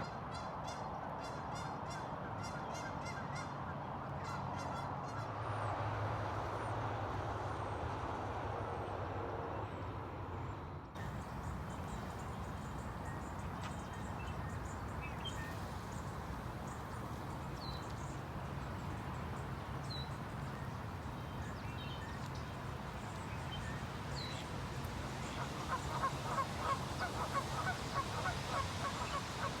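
Waterfowl honking and calling over a steady background hiss, with a fast run of calls in the last few seconds.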